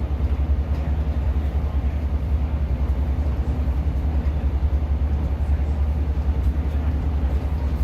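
Inside a Class 150 diesel multiple unit: the underfloor diesel engine and running gear give a steady, loud low drone with a fast pulsing throb.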